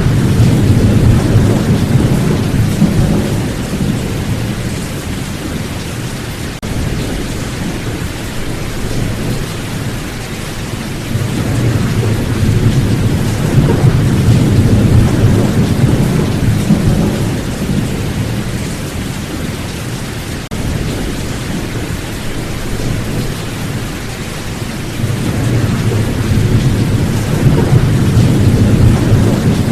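Steady rain with thunder rolling and rumbling: deep rumbles swell and fade three times, near the start, in the middle and near the end.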